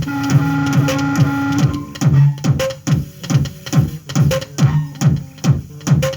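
Synthesizer music through a mixing desk: a held chord for the first second and a half, then a steady pattern of short synth hits that drop in pitch, about three a second.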